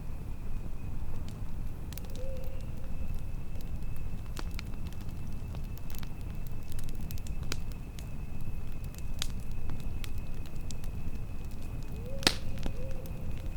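Campfire burning: a steady low rumble with scattered sharp crackles and pops, the loudest about twelve seconds in. A faint steady high tone runs underneath.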